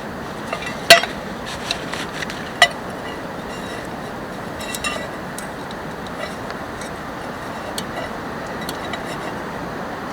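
Steady hiss of continuous rain with scattered sharp clicks and snaps, two of them much louder, about a second in and again about a second and a half later.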